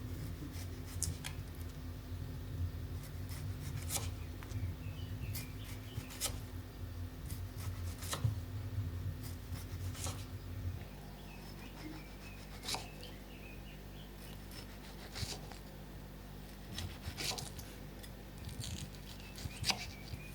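Coffee machine running with a steady low hum that shuts off about halfway through. Light clicks and scrapes of cups and utensils being handled run throughout.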